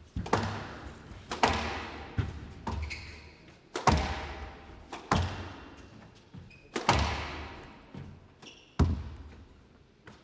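A squash rally: the ball is struck hard roughly once a second, each hit against racket and wall a sharp crack that rings away in a large hall. The hitting stops shortly before the end.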